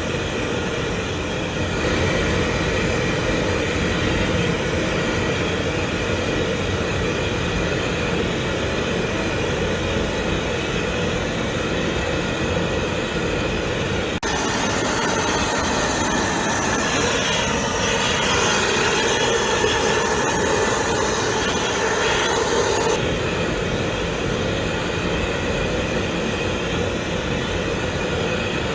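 Off-gas flare burner burning with a steady, continuous rushing noise from the flame. About halfway through, a brighter, hissier sound with faint whistling tones joins in for roughly nine seconds, then drops away.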